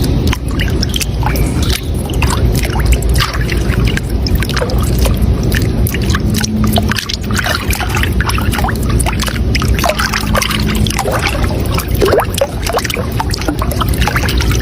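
Water flowing and splashing steadily, with a deep rumble and many small splashes throughout.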